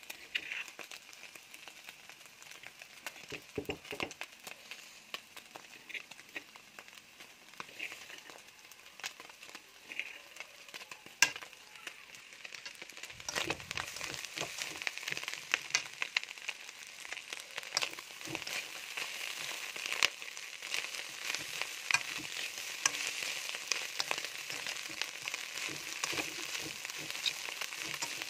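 Shredded meat frying in a hot wok, a dense crackling sizzle with sharp spattering pops, stirred with a metal spoon. The sizzle grows clearly louder about halfway through.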